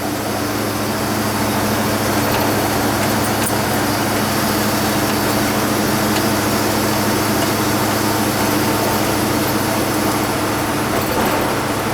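Steady engine hum and road noise heard from inside a vehicle's cab, with a low droning tone and an even hiss that do not change.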